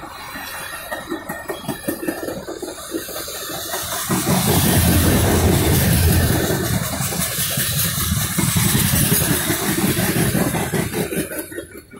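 Freight cars rolling past: steel wheels rumbling and clattering on the rails under tank cars and covered hoppers. The rumble gets much louder about four seconds in and begins to fade near the end as the last car goes by.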